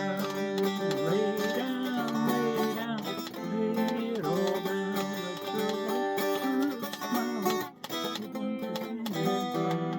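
Acoustic guitar strummed chords playing the song's closing bars, without singing.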